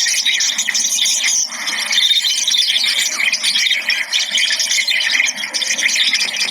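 A flock of small birds calling all at once: a dense, continuous chatter of many overlapping high-pitched chirps.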